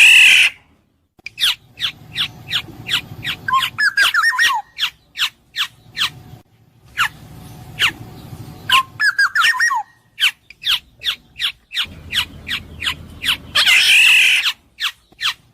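Black-naped oriole calling: a loud harsh, nasal screech at the start and again near the end, and between them a run of short sharp notes about two a second, twice broken by a quick cluster of falling fluty whistles. The passages stop abruptly in short silent gaps.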